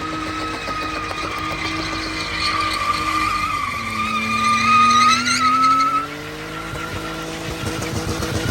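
Car drifting: tyres squealing in a wavering high tone while the engine revs, dropping and then climbing. The squeal is loudest around five seconds in.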